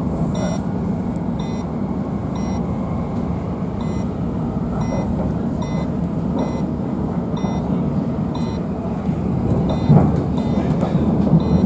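Class 345 electric train running at speed, a steady low rumble heard from inside the carriage, with a faint high beep repeating about twice a second. A few louder rumbling thumps come near the end.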